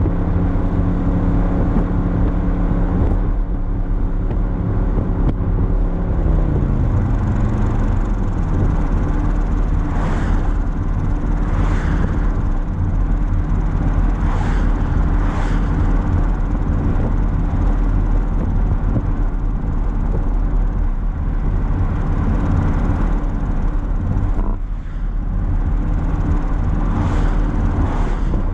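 Audi RS Q8's twin-turbo 4.0-litre V8 idling through an exhaust with all three resonators deleted. The idle speed drops about six to eight seconds in, then holds steady.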